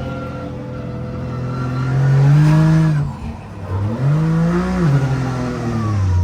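Car engine revving: the pitch climbs for about two seconds and drops off sharply near the middle, then a second, shorter rev rises and falls away near the end.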